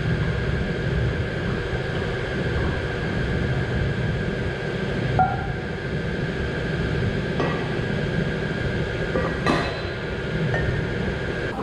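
Dairy milk-room machinery running with a steady hum and a high whine, with a few short metallic clinks and knocks about halfway through and near the end.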